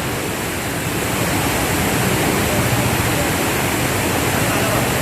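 Heavy rain and rushing water, a steady loud hiss with no breaks.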